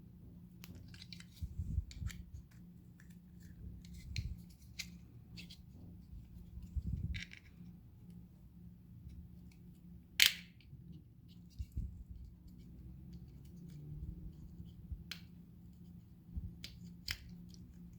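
Small plastic clicks, scrapes and snaps as the clip-fastened plastic housing of a small DC blower fan is pried apart by hand, with one loud sharp snap about ten seconds in.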